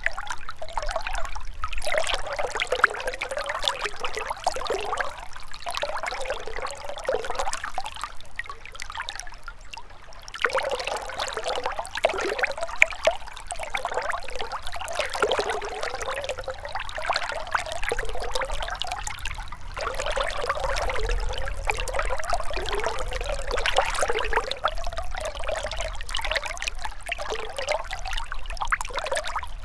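Shallow river water trickling and gurgling over stones, in waves that swell and ease every few seconds, with a faint low rumble underneath.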